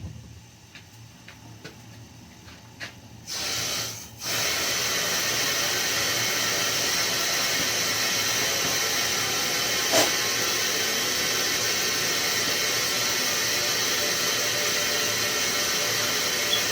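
Steam boiler sight-glass (gauge glass) valve opened and blowing through with a steady hiss: a short burst about three seconds in, then a continuous hiss from about four seconds on. The hiss is the pressure pushing through the cleaned glass passage and shows that it is clear. A few faint clicks come before it, and a sharp click about ten seconds in.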